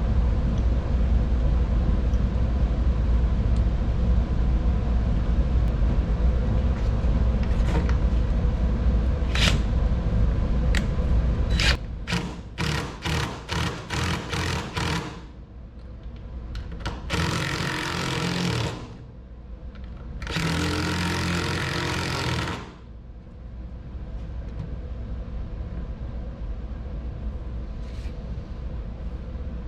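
Power drill driving lag bolts into a workbench top: a long steady run, then about eight short pulses of the trigger, then two runs of about two seconds each, near the middle.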